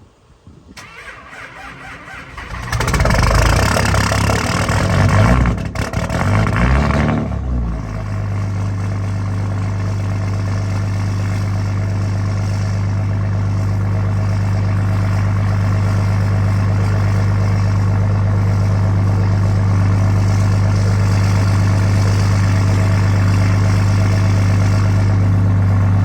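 Straight-piped Cummins diesel cold-starting at −10 °F without its block heater: it cranks, catches about three seconds in, and chugs roughly for several seconds. It then settles into a steady high idle.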